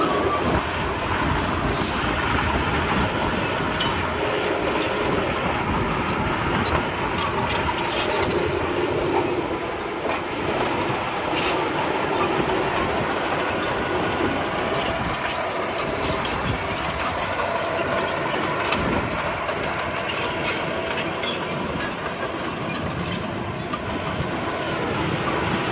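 Komatsu D31P crawler bulldozer running under load, a steady diesel noise with scattered short metallic clicks and knocks from its working gear.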